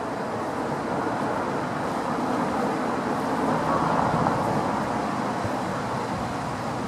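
A train running past with a steady rumble that swells about four seconds in and then eases.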